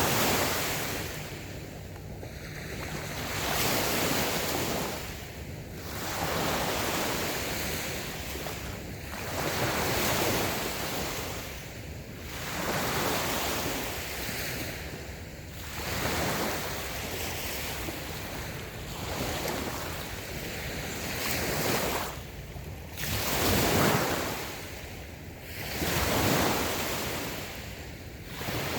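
Light waves breaking and washing onto a sandy beach, the surf swelling and ebbing about every three seconds.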